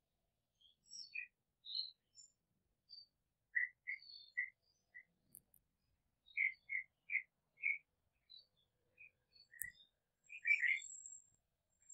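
Small birds chirping: short, separate chirps, some in quick runs of three or four, with a busier cluster near the end. A single sharp click comes near the end.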